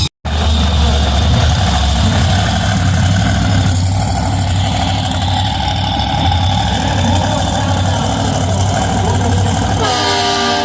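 Monster truck engine running at idle: a loud, steady low rumble.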